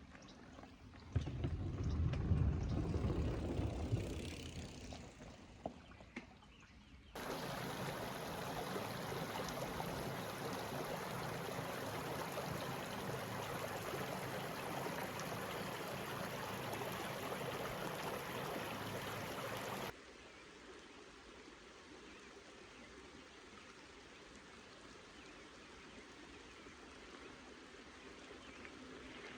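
Running stream water in several cut-together stretches: a louder, even rush from about seven seconds in that cuts off suddenly at about twenty seconds, then a quieter flow. A brief low rumble comes about a second in.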